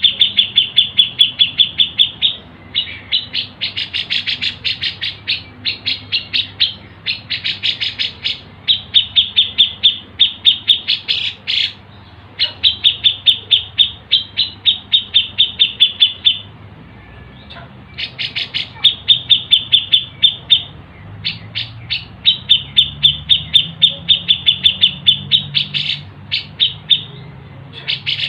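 A songbird chirping in fast, even trains of about six sharp chirps a second, broken by a few short pauses.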